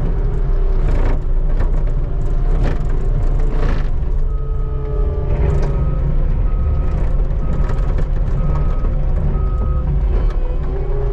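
Skid steer engine running under load, with a few sharp clanks early on, then a backup alarm beeping six times at an even pace as the machine reverses.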